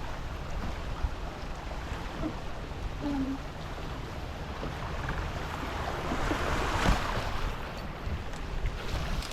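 Water rushing and splashing along the hulls of a Tornado racing catamaran under sail, with wind buffeting the microphone. The hiss of water swells about seven seconds in.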